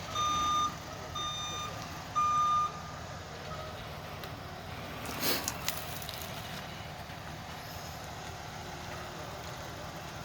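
A truck's backup alarm beeping about once a second over a low engine rumble. The beeps grow fainter and stop a few seconds in, and a short rustling burst follows.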